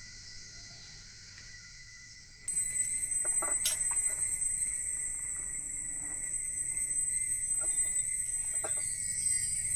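Rainforest ambience with a steady, high-pitched insect drone that gets abruptly louder about two and a half seconds in. A few short, sharp sounds come around a second later and again near the end.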